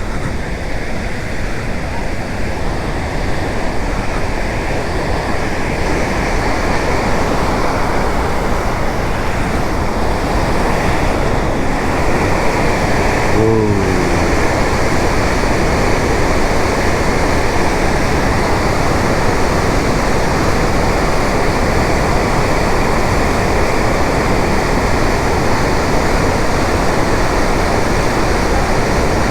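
Devi's Falls (Patale Chhango) in monsoon flood: a large volume of water rushing and crashing steadily as it drops into its underground channel. A short pitched call is heard briefly about halfway through.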